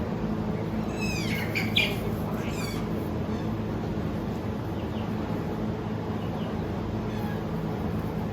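Newborn goat kid giving a few short, high-pitched, falling cries about one to three seconds in, over a steady low hum.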